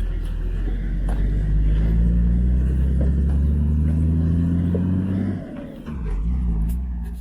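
A motor vehicle's engine running close by, its pitch climbing steadily for several seconds as it accelerates, then easing off and pulling again before the sound stops abruptly.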